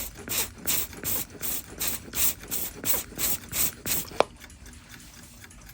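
Clock movement ticking evenly, about three sharp ticks a second. The ticking stops after a single louder click about four seconds in.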